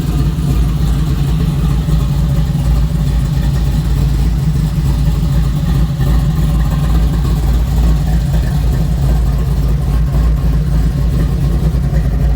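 A Chevrolet Monte Carlo's swapped-in 6.2-litre LS V8 idling steadily.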